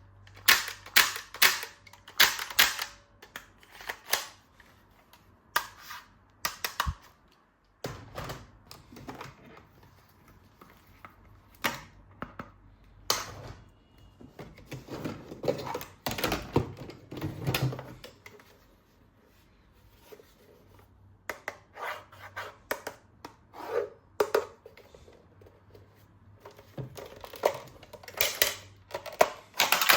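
Plastic toy guns being handled: sharp plastic clicks and snaps in irregular clusters, with softer rustling between them.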